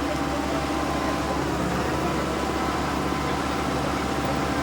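Diesel tractor engine running steadily with an even, low drone.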